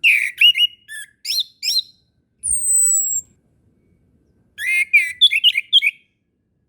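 Chestnut-capped thrush singing: a fast phrase of rising, bending notes, then one thin high whistle that falls slightly, then another quick run of rising notes.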